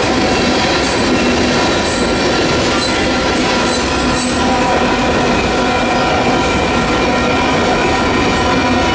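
Union Pacific manifest freight train's cars rolling past, a loud, steady rumble and clatter of steel wheels on rail with steady tones ringing over it.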